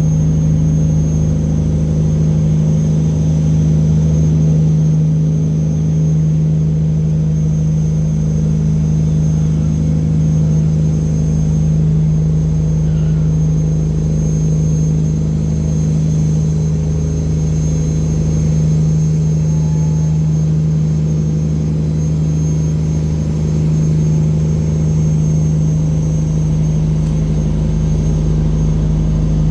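Boat engine running steadily at constant speed, a loud even drone that does not change pitch.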